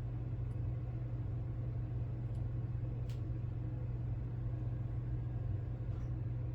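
Steady low hum in the room, with one faint click about three seconds in.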